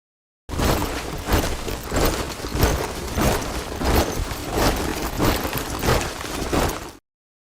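A column of soldiers marching in step, boots striking the ground together in a steady rhythm of about one and a half steps a second. It starts suddenly about half a second in and cuts off abruptly near the end.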